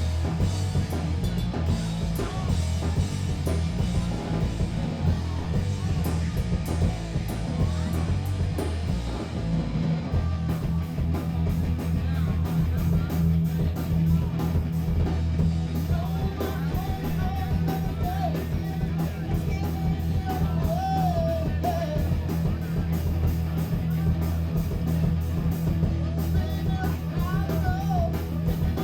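Live punk rock band playing loudly: electric guitar, bass and drum kit, with a wavering melody line coming in about halfway through.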